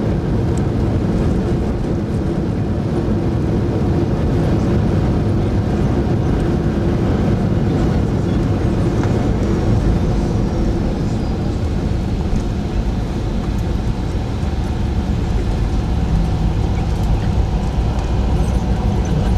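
Jet airliner cabin noise: a steady engine and airflow rumble heard from inside the passenger cabin, strongest in the low end.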